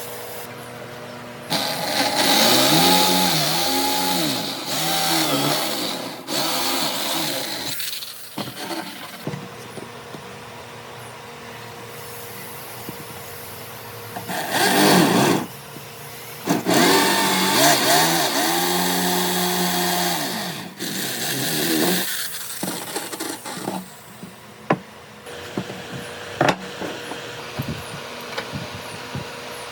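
An electric power tool working wood in several bursts of a few seconds each, its motor pitch dipping and recovering as it bites into the wood. Between the bursts come scattered knocks and taps.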